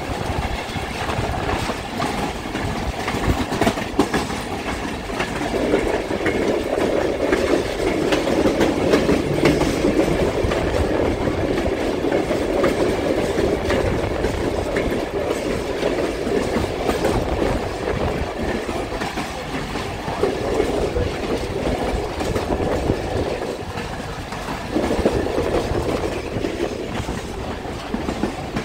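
Passenger train running along the track, heard from aboard: a steady rumble of wheels on rails with occasional clicks, swelling and easing in loudness.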